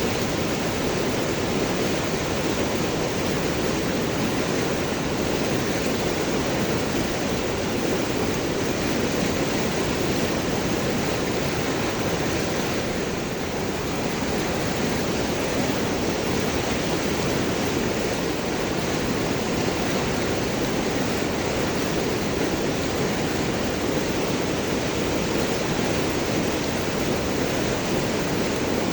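River water rushing and gurgling over and around large rocks, a steady even rush of water.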